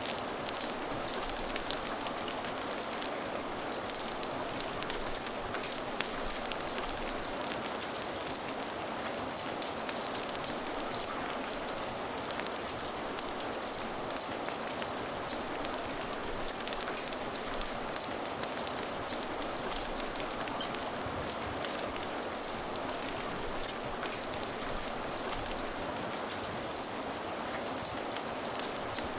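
Steady rain ambience, a dense even patter, with a scatter of small sharp pops and crackles from a fire mixed in.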